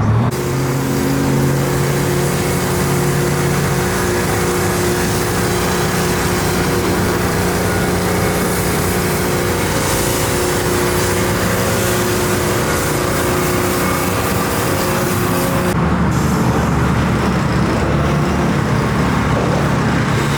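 An engine running steadily under a constant hiss, with an abrupt change in its tone twice, once just after the start and again near the end.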